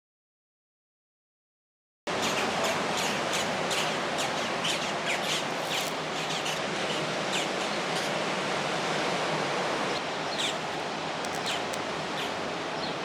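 Silent for about two seconds, then a steady outdoor rush of noise, like wind or running water, with many short, high bird chirps over it.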